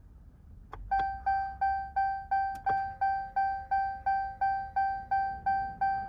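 Pickup truck's dashboard warning chime ringing repeatedly, a single bell-like tone about three times a second, with the ignition key switched on. A click comes just before the chimes start.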